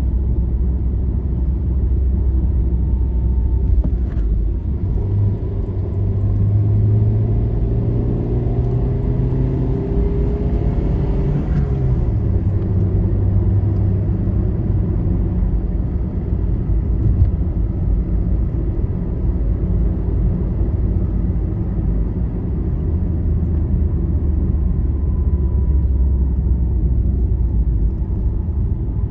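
Road vehicle travelling on a highway: a steady low road-and-engine rumble. Around the middle a stronger engine tone shifts in pitch, then drops away about twelve seconds in.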